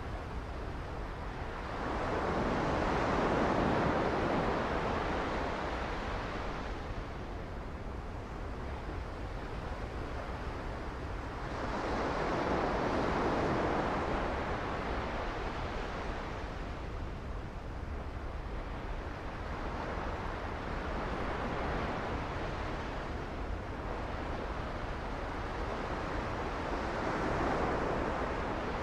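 Sea waves washing onto a beach, the surf swelling and falling away about every eight seconds, four times, over a steady low rush.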